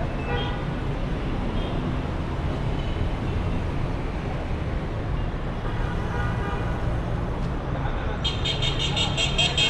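Dense city traffic rumbling steadily, with cars, buses and motorbikes running. Near the end a high-pitched, rapidly pulsing beep sounds for about a second and a half.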